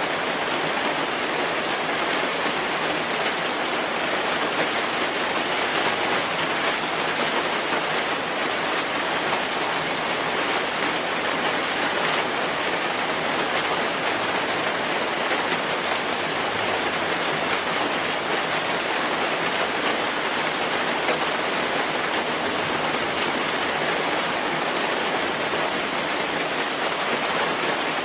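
Steady rainfall: an even, unbroken hiss of rain with fine patter of drops hitting a surface.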